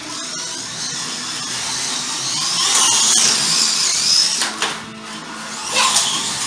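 Slot cars' small electric motors whining as the cars race round the track, the pitch rising and falling as they speed up and slow down. It is loudest in the middle and drops away a little past four seconds, with a couple of sharp knocks in the second half.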